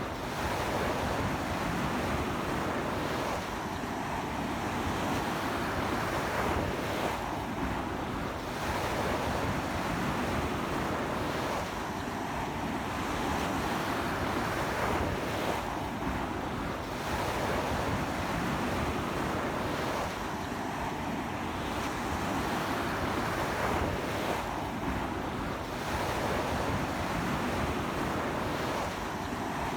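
Ocean surf breaking and washing up a beach, with strong sea wind buffeting the microphone. It is a continuous wash that swells and eases about every four seconds as each wave comes in.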